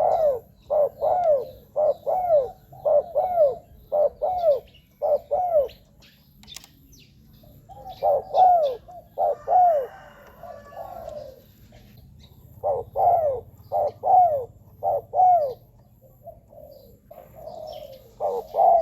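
Spotted dove cooing: repeated phrases of short, rounded coo notes with pauses of a second or two between phrases. This is the song of a decoy bird used to lure wild doves.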